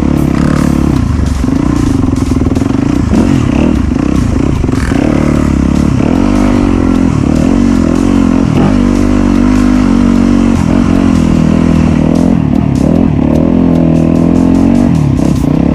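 Off-road dirt bike engine running under load, its revs dropping and rising again and again as the throttle is worked.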